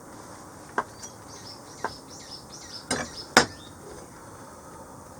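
A handful of sharp clicks or knocks, the loudest about three and a half seconds in. In the middle a bird sings a quick run of short falling notes over a steady outdoor hiss.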